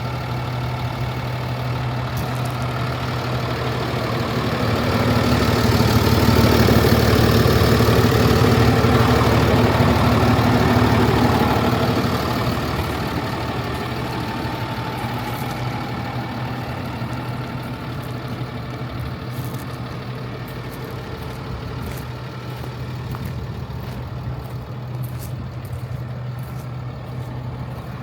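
The Cummins B6.7 inline-six diesel in an International 4300 truck idling steadily. It grows louder for several seconds in the middle, with its pitch unchanged, then settles back.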